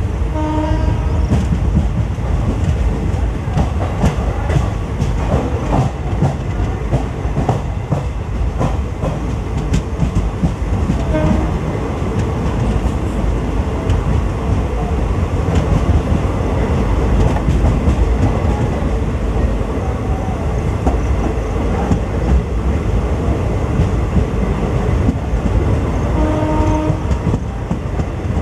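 Passenger train running at speed through a station without stopping: a steady low rumble with the clickety-clack of wheels over rail joints. The locomotive's horn sounds briefly just after the start, with a short toot about eleven seconds in and a longer blast near the end.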